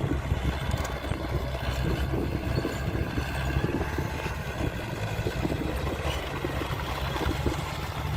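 Heavy construction machine's diesel engine running steadily at an even speed.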